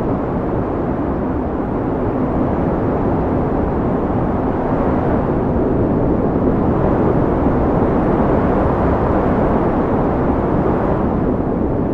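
Wind blowing steadily, a deep rushing noise that swells and eases slightly over several seconds.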